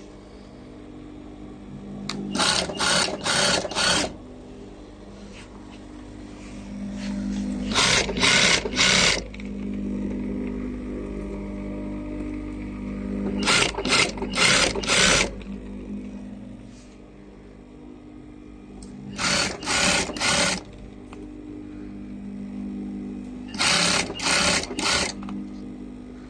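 Sewing machine stitching in short runs, three or four quick bursts at a time, repeated about every five seconds, over the steady hum of its motor.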